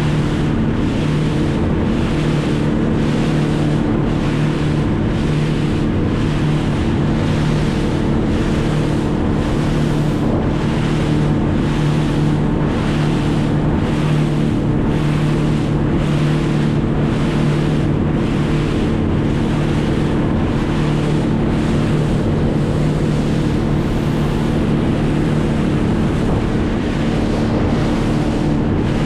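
An engine running steadily at a constant speed, with wind noise on the microphone and a regular swell in the hiss about once a second.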